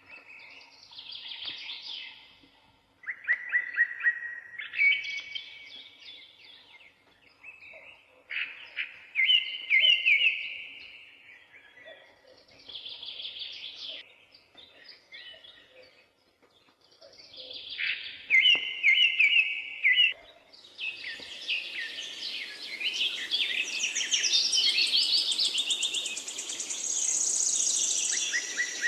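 Birds chirping and calling in short repeated phrases every few seconds, building about two-thirds of the way in to a dense, continuous chorus of chirps.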